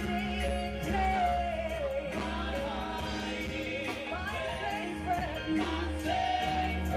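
Gospel praise singing: voices singing a worship song together over steady instrumental backing with a bass line.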